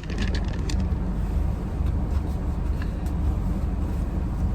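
Car engine running, a steady low rumble heard from inside the cabin, with a few light clicks in the first second.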